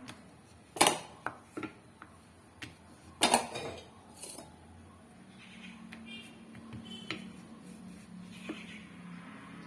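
Kitchen utensils clattering on a hard surface: two sharp clacks, about one and three seconds in, with lighter clicks and taps between and after.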